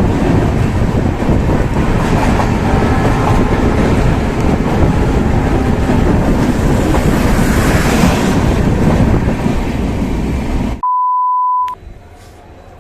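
Passenger train running, a loud continuous rumble of wheels on rails with rushing air. About eleven seconds in it cuts off abruptly, and a short steady beep follows before a much quieter background.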